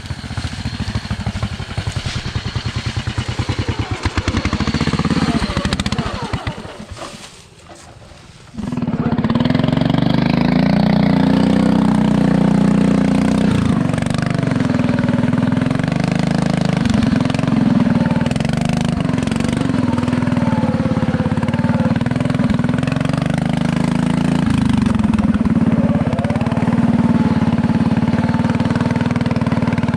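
Tractor engine running loud and steady, its pitch wavering a little as throttle and load change. It falls away briefly about six seconds in, then comes back suddenly loud about two seconds later.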